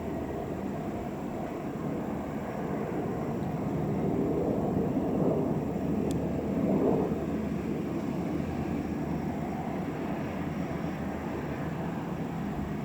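Two military helicopters coming in to land, their rotors and turbine engines making a loud, steady din that swells to a peak about seven seconds in and then eases a little.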